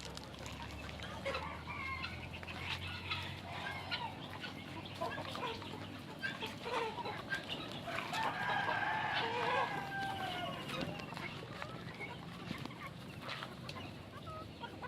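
A flock of chickens clucking with many short calls. One longer, drawn-out call about halfway through is the loudest moment.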